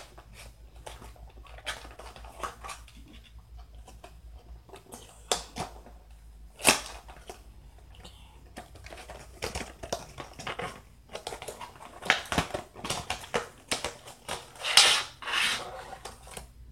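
Headphone packaging being opened and handled: cardboard and plastic crinkling and rustling, with scattered clicks and a sharp snap about a third of the way in.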